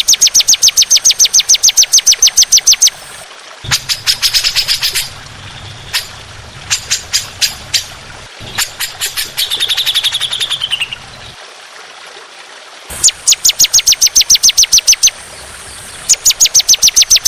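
A songbird singing loud, rapid trills of repeated sharp notes, about eight a second, in runs of up to about three seconds with short pauses between. A slurred, falling warble comes around ten seconds in.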